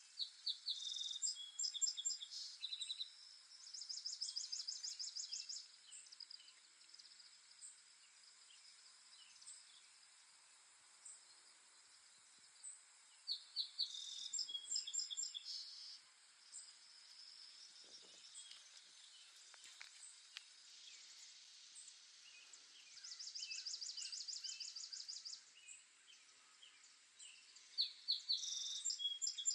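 A songbird singing a repeated song: a quick run of high chirps followed by a fast, even trill. The song comes three times, near the start, in the middle and near the end, over a faint steady background hiss.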